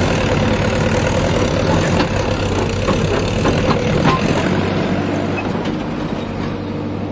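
Tractor diesel engine running hard under a heavy load, with loose metal clattering and a few sharp knocks in the first few seconds.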